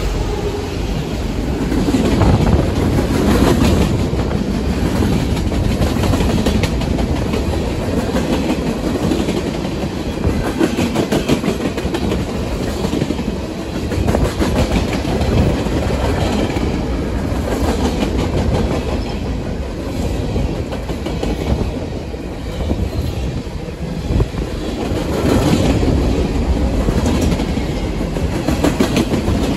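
Freight train passing close by: steel wheels rolling and clacking over the rail joints with a steady, loud rumble as the cars go past.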